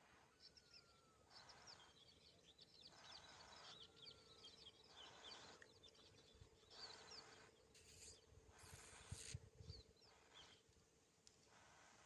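Faint chirping of birds: many quick, high chirps over a faint steady hum.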